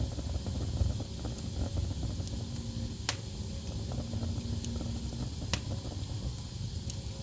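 Wood fire burning in a fireplace: a steady low rumble of flames with scattered sharp pops and crackles, the loudest about three seconds and five and a half seconds in.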